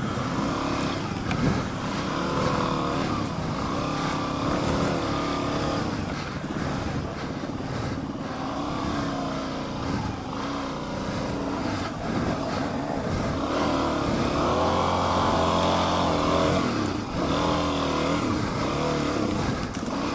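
Dual-sport motorcycle engine revving up and down again and again, its pitch rising and falling, as the bike is worked through deep mud.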